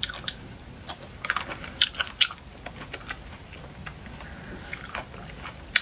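Biting into and chewing a large cherry close to the microphone: a string of short sharp clicks, most of them in the first two and a half seconds, then sparser.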